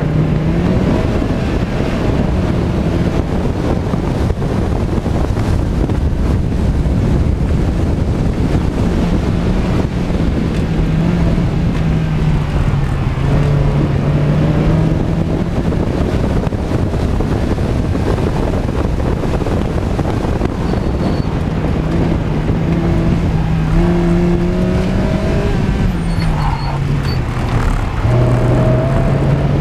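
Car engine being driven hard through an autocross run, its pitch climbing under acceleration and dropping off several times as the driver works through the cone course.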